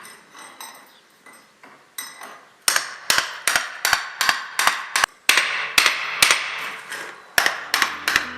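Hammer blows striking at a steady pace of about two to three a second, each a sharp crack with a brief metallic ring, starting after a quieter opening. Music with low held notes comes in near the end.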